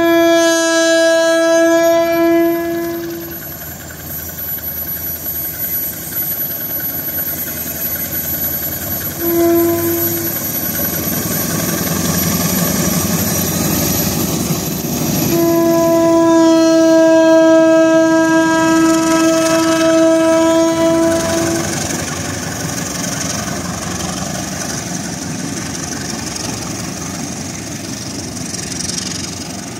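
Train passing with its locomotive horn sounding. There is a long blast at the start, a short toot about nine seconds in, and a longer blast of about six seconds from around fifteen seconds in, over steady rumbling wheel and rail noise that swells as the train goes by.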